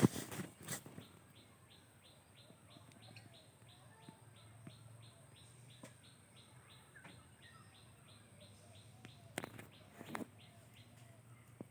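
Faint short high chirps repeating evenly, about three a second, typical of a bird calling. There are a few louder knocks at the start and twice near the end.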